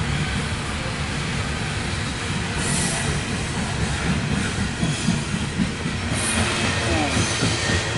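Loaded coal hopper cars of a freight train rolling past: a steady rumble and clatter of steel wheels on rail, with brief high squeals about three and six seconds in.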